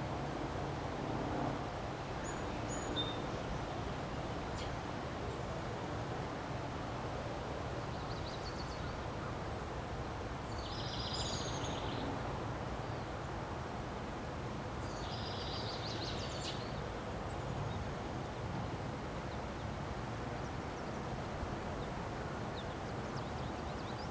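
Wind blowing steadily in a windstorm, a constant rushing noise. A bird calls a few times in the middle, short harsh calls.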